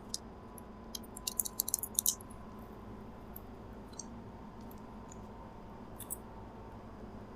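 Crinkly chocolate-bar wrapper being handled: a quick cluster of sharp crackles about a second in, then a few scattered ticks, over a steady faint hum.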